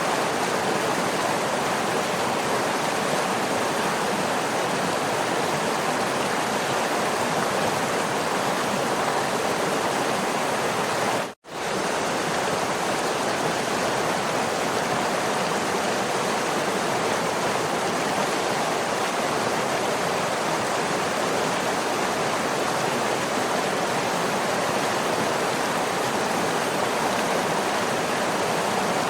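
Waterfall: steady rushing, splashing water. About eleven seconds in, the sound cuts out for a split second and then comes straight back.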